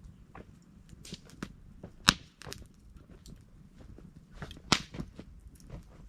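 Wood campfire crackling, with irregular small pops over a low rumble of burning and two sharp loud pops, about two seconds in and near five seconds in.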